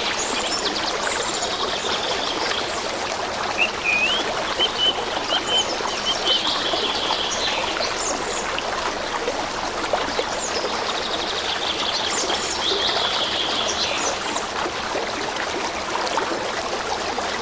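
Stream of water running steadily, with small birds chirping and trilling over it in several bouts, including a short rising whistle followed by a few clipped notes.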